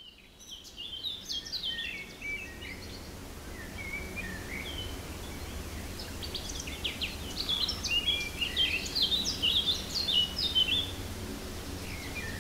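Small birds chirping and twittering in quick, repeated calls, busiest in the second half, over a steady low background rumble.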